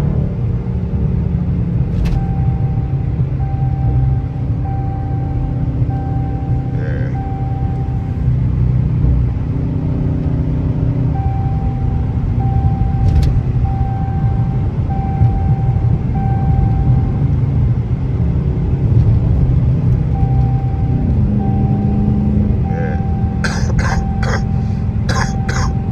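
Straight-piped Dodge Charger R/T's 5.7 HEMI V8 running while driving, a steady low exhaust rumble heard inside the car, with music playing over it. A few coughs near the end.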